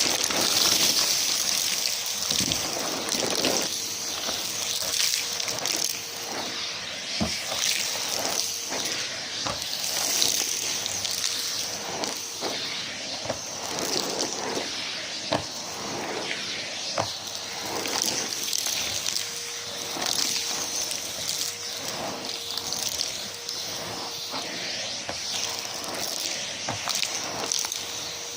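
Numatic James tub vacuum cleaner running steadily with a constant motor whine, its hose sucking up bits of mess that click and crackle as they rattle through.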